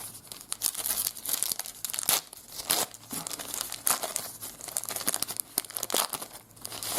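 A trading card pack wrapper being torn open and crinkled by hand, with a run of irregular crackling and tearing sounds.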